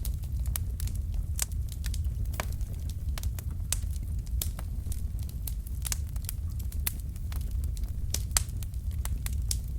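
Wood fire crackling in a fireplace: a steady low rumble of flames with frequent sharp, irregular pops from the burning logs.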